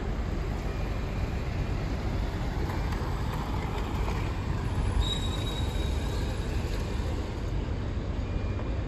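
Dubai Metro train running, heard from inside the carriage: a steady rumble of wheels and running noise, with a brief high whine about five seconds in.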